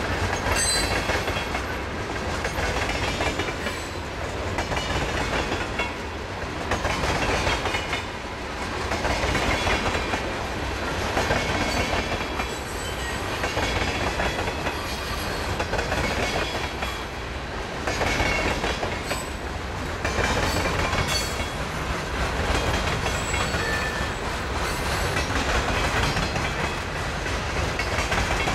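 Freight train's cars rolling past: a steady rumble of steel wheels on rail, with repeated clicks as wheels cross rail joints, swelling and easing slightly as tank cars and then loaded flatcars go by.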